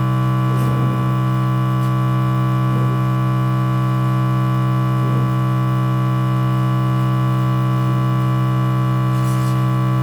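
Small airbrush compressor running steadily, its motor and pump giving a constant even-pitched hum with no change in speed.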